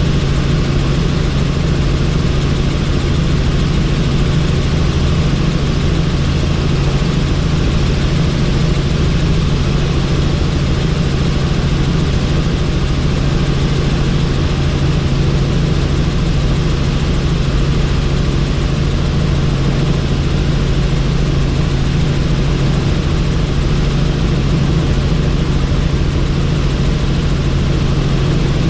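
Helicopter in flight: steady engine and rotor noise with a strong low hum and a broad rushing noise, unchanging throughout.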